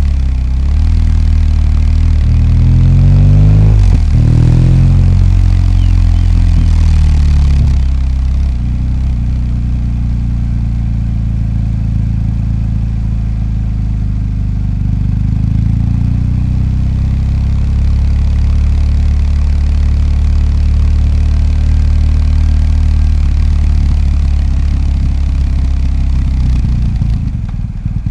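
BMW R 1250 GS's boxer twin engine riding in traffic: the revs climb and drop through a couple of gear changes in the first few seconds, then it runs steadily at low revs, picking up slightly around the middle.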